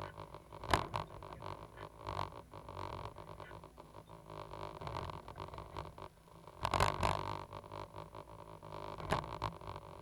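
Cat 320GC excavator's diesel engine running steadily, with a few sharp knocks and a louder clatter about seven seconds in.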